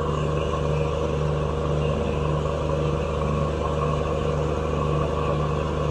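A pair of Alco diesel locomotives idling with a steady, even low engine hum.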